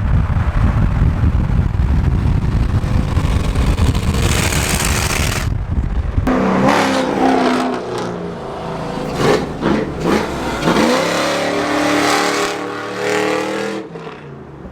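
Car engines revving hard during burnouts: a loud low exhaust rumble for the first half, then, from about six seconds in, engine pitches repeatedly climbing and falling.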